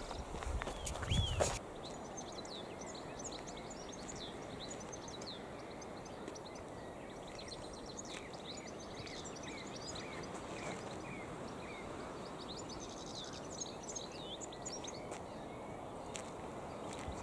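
Birds singing, with many short chirps over a steady background hiss. There are a few knocks in the first second and a half.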